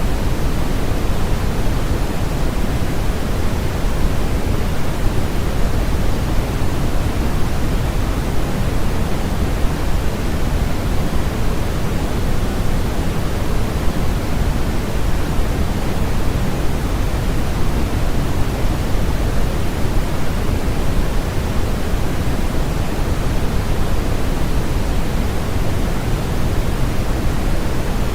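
Steady electronically generated noise for sleep masking: a constant, even hiss with no changes, heavier in the low end than the high, closer to pink noise than pure white noise.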